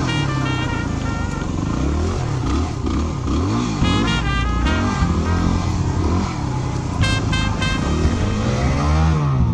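Motorcycle engine revving up and down again and again, its pitch rising and falling through tight turns, with background music playing over it.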